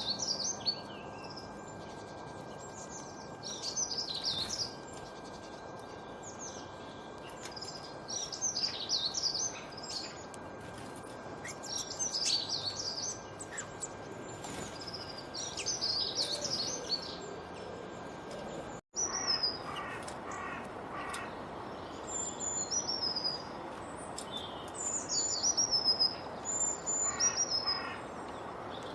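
Songbirds singing over a steady background hiss: one bird repeats a falling, warbling phrase about every four seconds, accompanied by a faint steady tone. About two-thirds of the way through, the sound cuts out for an instant and a different recording follows, with high, clear whistled notes and short rapid notes from other birds.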